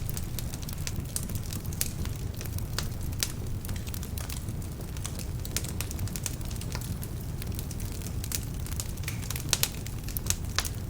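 Wood fire burning in a fireplace: irregular crackles and sharp pops over a steady low rumble of the flames, with a few louder pops near the end. Some of the logs are damp, which adds to the crackling.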